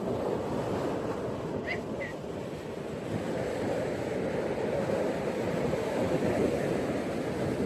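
Ocean surf washing onto a beach: a steady rush of waves that swells up as it begins. Two brief high chirps come close together about two seconds in.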